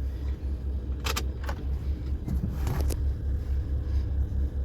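Low, steady engine rumble with a few sharp clicks about a second in and again near the three-second mark.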